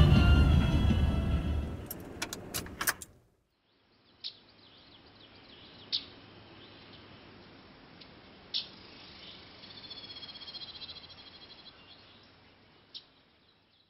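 A loud low rumble, with music, fades out over the first three seconds and ends in a few sharp clicks. After a moment of silence comes faint outdoor background with a few scattered bird chirps and a short warbling bird call about ten seconds in.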